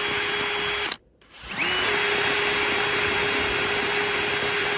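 Small high-speed rotary grinder running steadily, deburring the freshly cut end of a pump shaft sleeve. It cuts off suddenly about a second in, starts again and winds up to speed, then runs steadily until it cuts off near the end.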